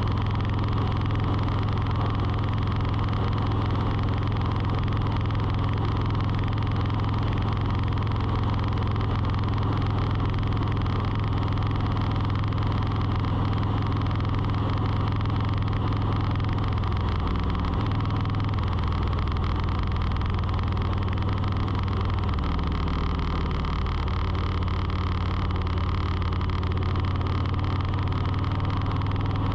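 A motor running steadily with a low hum, its pitch shifting in a few small steps about halfway through.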